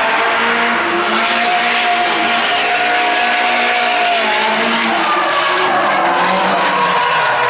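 Drift car's engine held at high revs, its note rising and falling, while the tyres squeal and screech as the car slides. A steady high squeal tone runs through the first few seconds, then drops away.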